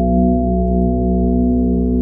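Sound-bath drone: a dense, sustained stack of steady overtones from resonant healing instruments, with slow pulsing beats in the low tones and no new strike.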